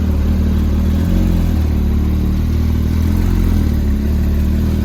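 Loud sports car engine idling steadily close by, a deep even drone.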